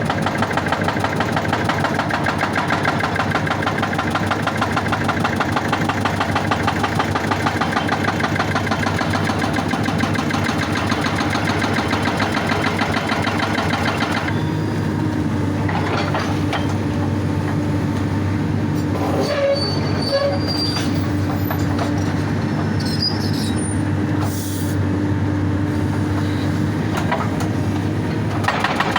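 Excavator-mounted hydraulic breaker hammering rock in a rapid, even rhythm over the diesel engine's steady running. About halfway through the hammering stops, leaving the engine running with a few scattered knocks, and the hammering starts again near the end.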